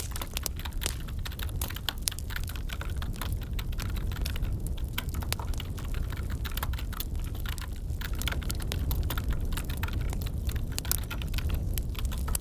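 Wood fire crackling in a fireplace, with many irregular sharp pops and ticks over a low rumble, mixed with computer keyboard typing.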